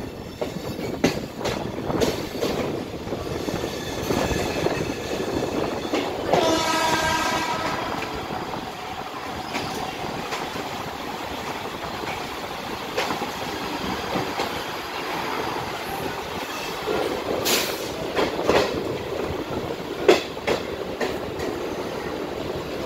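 Mumbai suburban electric local trains running at speed side by side, heard from an open doorway: a steady rumble with wheels clattering over rail joints. A train horn sounds once for about a second about six seconds in, and a few sharp clanks come near the end.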